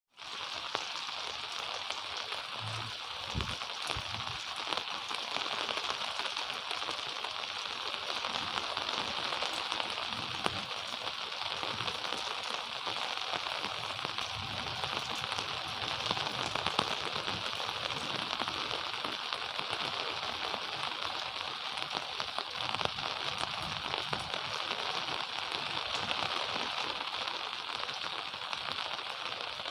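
Steady gentle rain falling, an even hiss with many fine drop ticks. A few brief low thumps sound about three seconds in.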